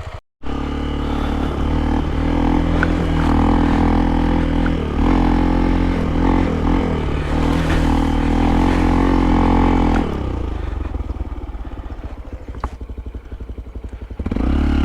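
Hero Impulse motorcycle's single-cylinder engine held at high revs for about ten seconds as the bike works to pull itself out of deep slush. It then drops to a lumpy idle and revs up again near the end.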